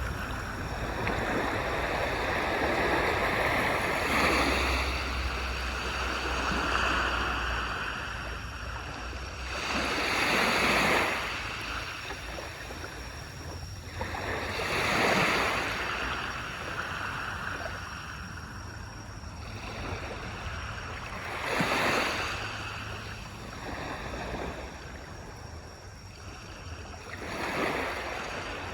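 Waves breaking on a beach: the surf swells up and washes in about every five to six seconds, with a steady low rumble of sea between the breakers.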